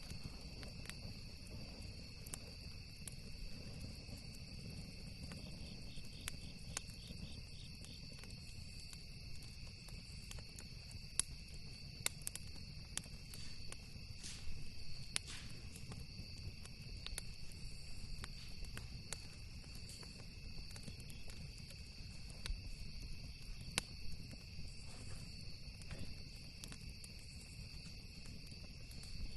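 Campfire crackling, with irregular sharp pops scattered throughout and a few louder ones near the middle, over the steady chirring of insects and a low continuous rumble.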